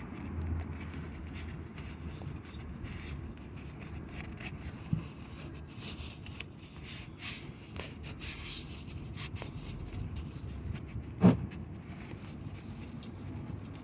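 Cloth shop rag rubbing and wiping around the oil filter area in rustling bursts, with a light knock about five seconds in and a sharper, louder knock about eleven seconds in.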